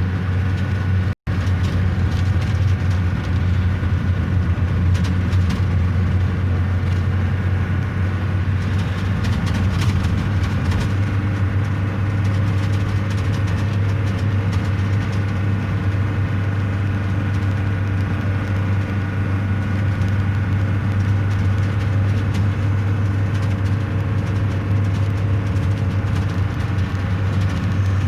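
A car driving along with a steady low engine and road drone. The sound drops out for an instant about a second in.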